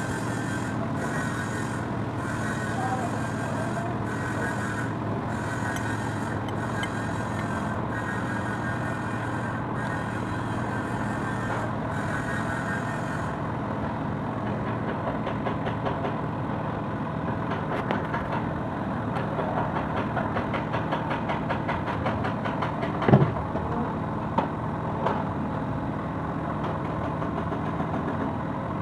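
Kubota D905 three-cylinder diesel engine running at a steady speed. A few sharp clicks and knocks come in the second half, the loudest about two-thirds of the way through.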